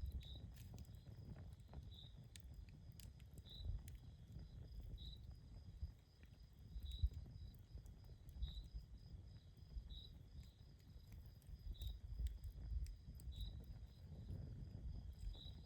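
Outdoor campfire crackling softly, with sparse small pops and a low rumble of burning wood. A short high chirp repeats steadily about every one and a half seconds over it.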